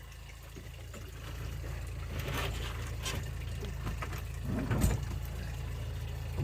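Boat engine running steadily, with water splashing and gurgling along the hull; a single thump about five seconds in.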